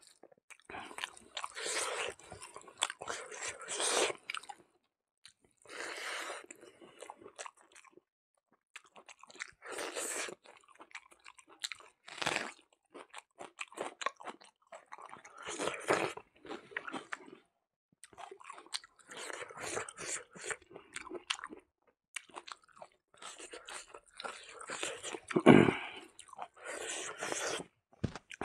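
Close-miked chewing and crunching of a hand-eaten mouthful of pig snout with rice and cucumber, in bursts with short silent pauses between bites. The loudest burst comes about three-quarters of the way through.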